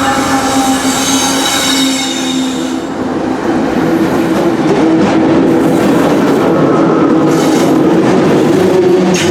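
Freight train cars rolling past close by: steady wheel-on-rail noise with squealing tones from the wheels. A high-pitched squeal sets in right at the end.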